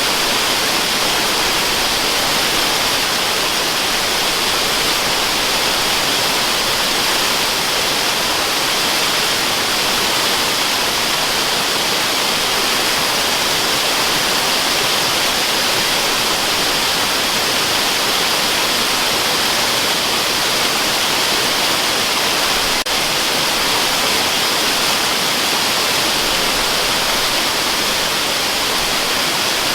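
Waterfall: a steady, unchanging rush of falling water with a strong hiss, used as white noise. There is one faint click about 23 seconds in.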